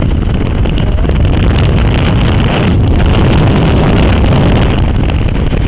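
Rescue helicopter running close by: a loud, steady rotor and engine noise.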